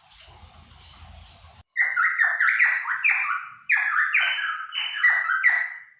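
Cucak pantai, a Papuan songbird, singing loud repeated phrases, each sliding downward in pitch, about two a second, after a second and a half of faint background noise.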